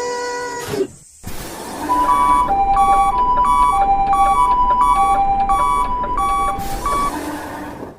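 A horn note cuts off under a second in. Then a railroad crossing signal rings, alternating between two electronic tones, high and low, over a steady rushing noise. The signal stops about a second before the end.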